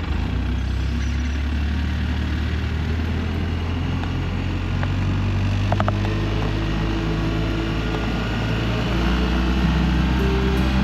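Polaris Ranger side-by-side's engine running steadily, its hum getting a little louder and changing pitch about nine seconds in.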